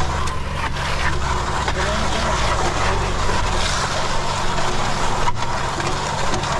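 A machine engine running steadily, with a few faint knocks over it.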